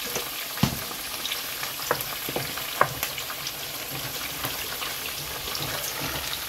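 Onion-and-spice masala frying in oil in a pot with a steady sizzle while it is stirred. A spoon knocks against the pot now and then, most sharply three times in the first three seconds.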